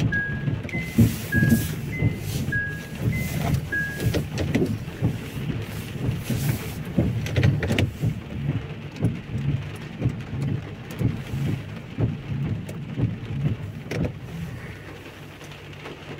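Heavy rain falling and pattering on an umbrella held close overhead, with scattered sharper taps. During the first four seconds a two-note electronic beep alternates high and low, about one note every half second.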